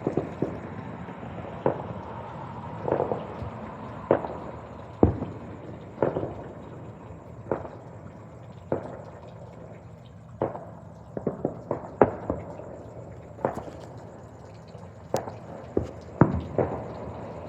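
Distant fireworks and firecrackers going off: a steady run of separate sharp bangs, about one or two a second, some in quick clusters of pops, over a background hum.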